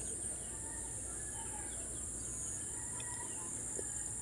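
Steady high-pitched insect drone with faint scattered bird calls and clucking chickens.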